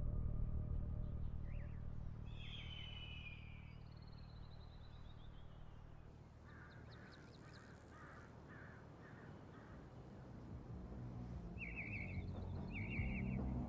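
Birds calling over a quiet ambience: a few short calls early, then a run of about six evenly spaced calls, and two more near the end. A low drone fades out at the start, and a rising rush of noise begins right at the end.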